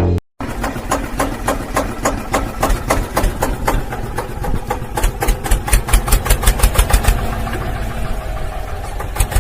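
Small electric motor driving a homemade model chaff cutter, with rapid regular clicking of about five a second over a faint motor whine. About halfway through, the clicking quickens and gets louder.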